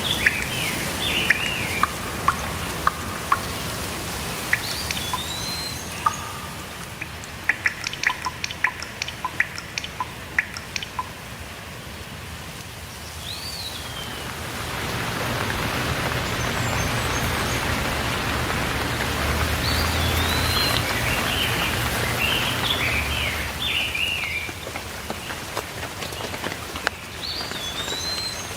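Rain falling steadily with songbirds chirping over it. Between about 7 and 11 seconds in there is a quick run of sharp drops, and from about 14 seconds the rain swells heavier for around ten seconds before easing again.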